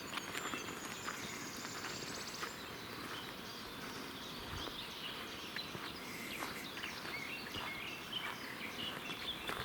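Forest birds singing: a high trill over the first two seconds or so, then warbling chirps, with a scatter of small clicks underneath.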